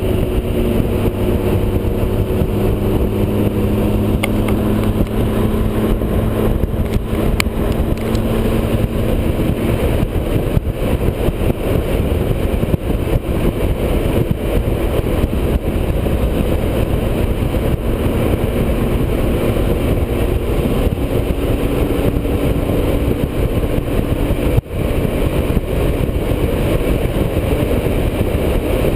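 Motorcycle running at highway cruising speed, its engine a steady drone under dense rushing wind and road noise, with a momentary drop in the sound about 25 seconds in.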